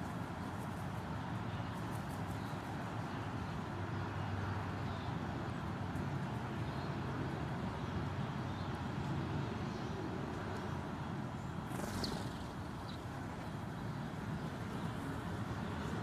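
Steady background rumble of road traffic, with a brief high chirp about twelve seconds in.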